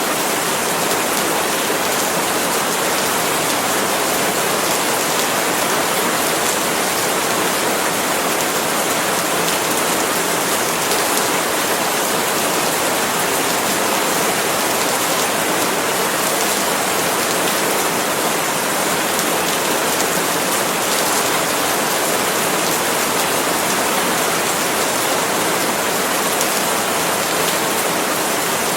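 Steady, dense rain falling on palm leaves, an even hiss of countless drops with no letup.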